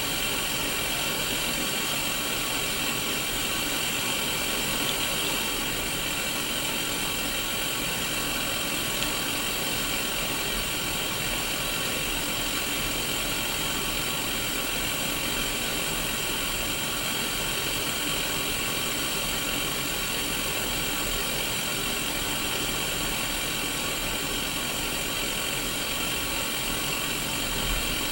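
Static hiss from a Sony Mega Watchman black-and-white mini CRT television picking up no signal: steady white noise, brightest in the upper middle, with a faint low hum beneath.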